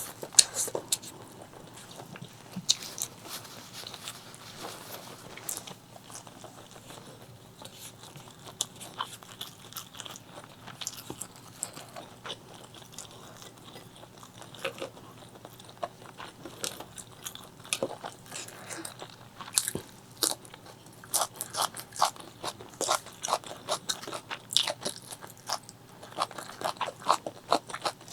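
Close-miked chewing and biting of spicy chicken liver, gizzard and rice, with many short crunchy, wet clicks. The clicks come thicker in the last several seconds.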